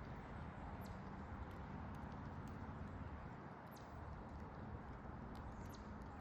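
A few short, high bird chirps from small songbirds at a backyard feeder, heard about a second in, in the middle and near the end, over a steady low outdoor background rumble.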